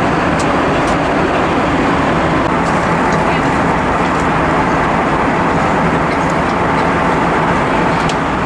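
Steady cabin noise inside an Airbus A320: an even rush of airflow and engine noise at a constant level, with a few faint light ticks.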